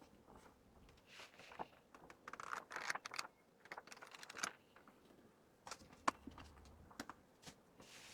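Hands handling and packing merchandise: scattered light clicks and taps with short crinkling rustles of packaging.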